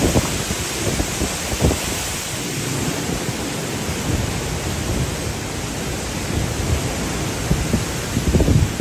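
Strong wind gusting and buffeting the microphone in low, irregular thumps over a steady rushing hiss, the hardest gusts near the end.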